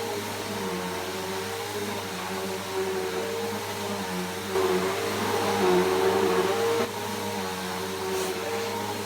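Bissell PowerForce Helix Turbo upright vacuum cleaner running steadily, its motor hum a little louder for a couple of seconds in the middle.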